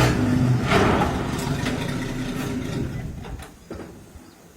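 A motor vehicle engine running with a steady low hum, loud at first and fading away over a few seconds.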